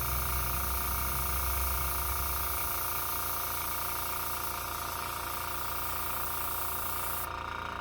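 Airbrush spraying paint from an airbrush compressor kit: a steady hiss of air and paint while the trigger is held down, over the steady hum of the compressor motor.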